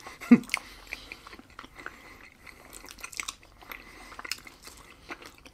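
Close-miked chewing of thick, sticky mochi: soft wet smacks and many small sticky clicks, with one short voiced hum just after the start.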